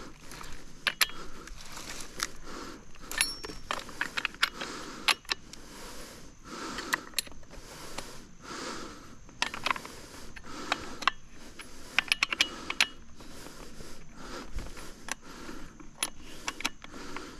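Small metallic clicks and clinks at irregular intervals as the saw chain on a Stihl MS 400 C chainsaw is tensioned by hand, the tool and chain working against the bar.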